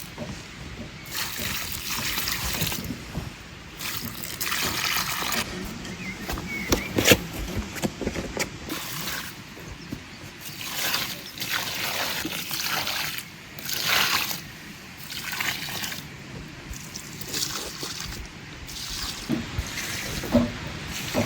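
Water trickling and splashing in irregular bursts, with a few sharp clicks and knocks, the loudest about seven seconds in.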